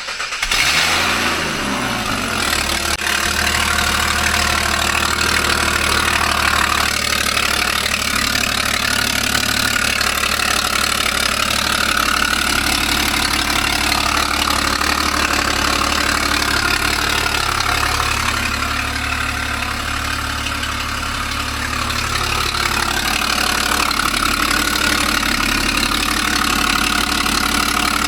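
Ford Falcon FG XR6 Turbo's turbocharged inline-six just after starting, its revs falling over the first couple of seconds and then idling steadily. The car has an exhaust leak.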